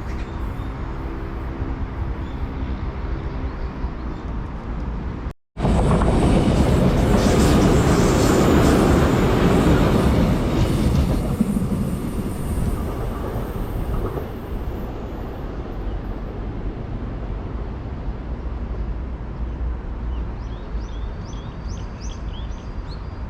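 A train running past on the track: a steady rumble of wheels on rail with a faint hum, broken by a brief dropout about five seconds in, then a louder pass that swells for several seconds and eases back to a steady rumble.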